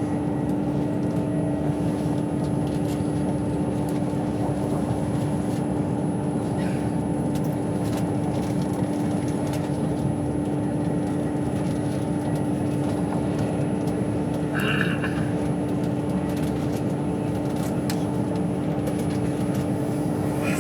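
Steady running noise of a train heard from inside the passenger carriage: a continuous rumble with a steady low hum, a few faint clicks, and a short high squeak about three quarters of the way through.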